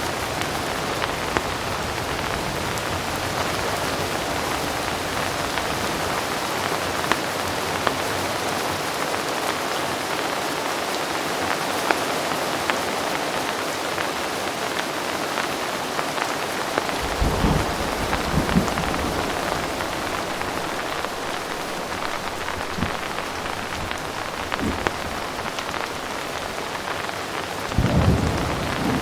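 Heavy rain falling steadily, with scattered sharper drop ticks. Low thunder rumbles in about two-thirds of the way through, and another begins near the end.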